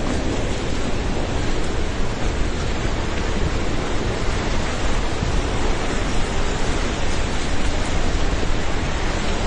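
Flash-flood water in a swollen river rushing past: a steady, loud rushing noise with no breaks.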